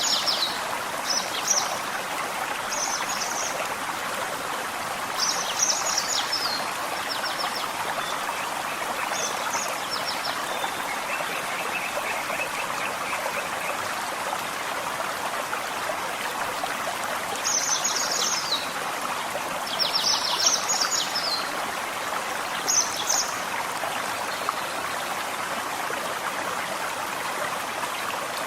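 A forest stream babbling steadily. Songbirds chirp over it in short bursts of high notes every few seconds, with a brief trill about halfway through.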